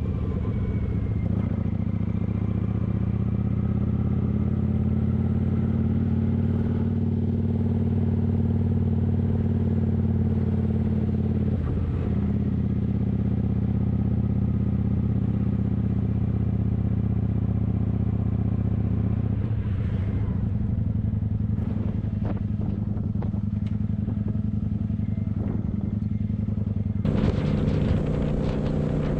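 Kawasaki motorcycle engine running steadily while riding, its pitch drifting slowly upward and then changing abruptly about 12 seconds in, again around 20 seconds, and once more near the end.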